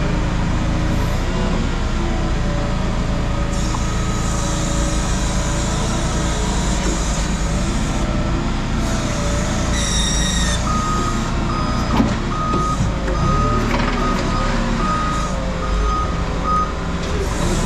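A work vehicle's engine running steadily. About ten seconds in there is a short high-pitched squeal, then the vehicle's reversing alarm beeps about twice a second for some six seconds.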